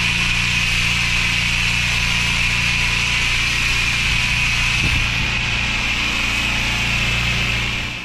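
Pressure washer spraying treatment solution at low pressure: a steady jet hiss over the washer's engine running at constant speed. The spray cuts off near the end while the engine keeps running.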